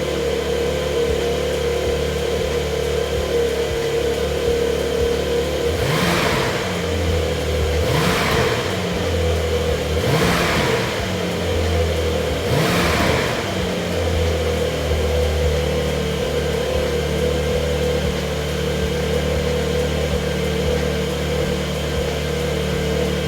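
2020 Porsche 911 (992) Carrera's twin-turbo flat-six engine and exhaust idling steadily, revved in four short blips about two seconds apart, then settling back to idle.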